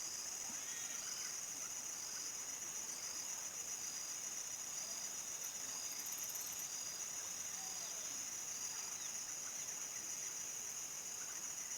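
Crickets singing at dusk: a continuous high, steady trill with a shorter chirp repeating about once a second.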